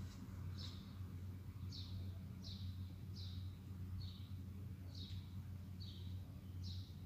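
A bird chirping over and over, short high falling chirps at about one or two a second, over a steady low electrical hum.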